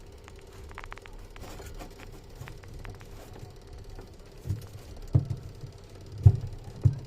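Washing machine on its spin cycle with a steady low rumble, then several heavy, irregular thumps in the second half. This is the abnormal spin noise of a machine with a spin problem.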